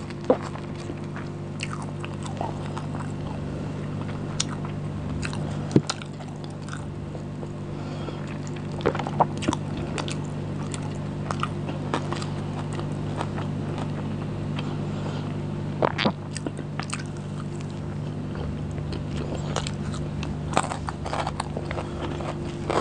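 Close-miked eating sounds: chewing and biting of lachha paratha dipped in chicken curry, eaten by hand, with many short sharp mouth clicks scattered throughout. A steady low hum runs underneath.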